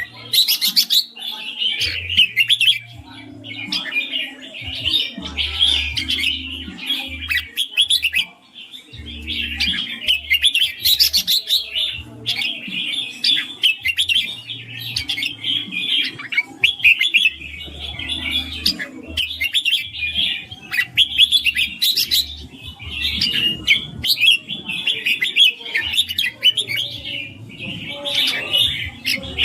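Red-whiskered bulbul singing one busy, chirping phrase after another with short gaps between them, in the song style Thai bulbul keepers call 'ring'.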